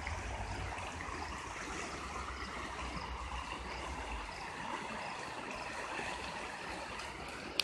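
Rainwater running high after a heavy downpour, giving a steady rush of flowing water. A low rumble underneath dies away about four seconds in, and there is a sharp click near the end.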